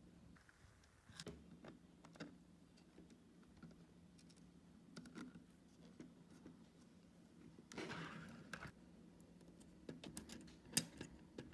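Faint, scattered clicks and a brief rustle of small 3D-printed plastic parts being handled and pressed together, with one sharper click near the end.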